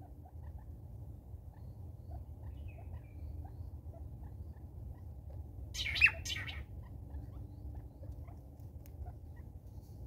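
A short, sharp bird call about six seconds in, with a quick falling note, over a steady low hum and faint light ticking.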